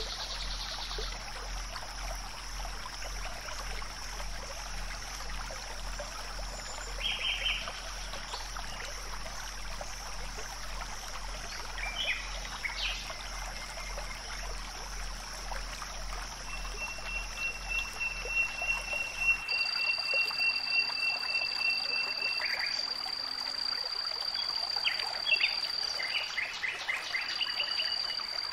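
Outdoor nature ambience: a steady high-pitched insect drone over a hiss like running water, with short bird chirps scattered through. About two-thirds of the way in, the drone suddenly drops to a slightly lower pitch.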